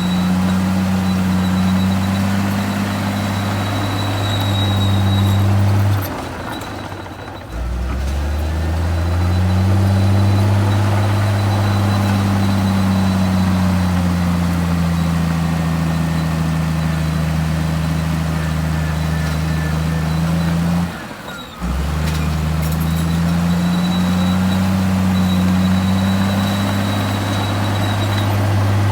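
Heavy diesel engine of earthmoving machinery running steadily under load, its speed drifting slowly up and down. The sound drops out abruptly twice, a little after six seconds and again near twenty-one seconds, then resumes.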